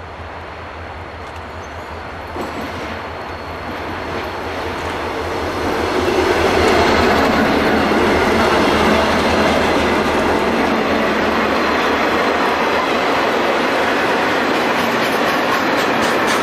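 Loaded iron ore train rolling past close by, its steel wheels clattering over the rail joints. It grows louder over the first six seconds, then holds steady.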